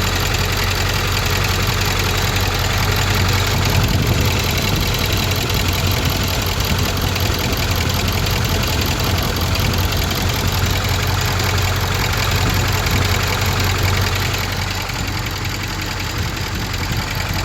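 Ford 6.4 L Powerstroke V8 turbodiesel idling with a rattle that shows up once the engine is warm. It runs steadily, a little quieter in the last few seconds.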